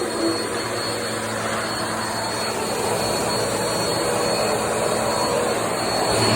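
Bissell PowerForce bagless upright vacuum cleaner running, a steady rushing of motor and suction air with a thin high whine, growing a little louder near the end.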